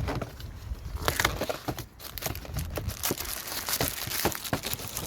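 Packaging crinkling and tearing as a new car air filter is unwrapped, starting about a second in.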